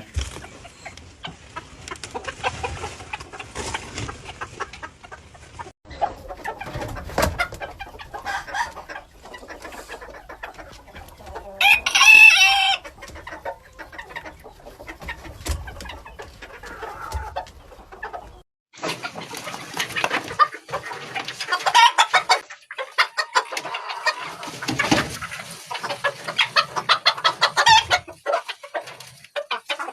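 Porcelain rose comb bantam chickens clucking steadily, with one rooster crowing briefly about twelve seconds in, the loudest sound.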